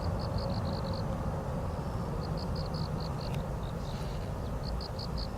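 An insect chirping in short trains of about seven quick pulses, a new train every couple of seconds, over a steady low rumble.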